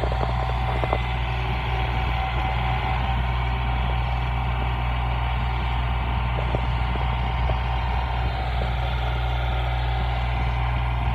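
Backhoe's diesel engine running steadily, with an even low drone and no revving.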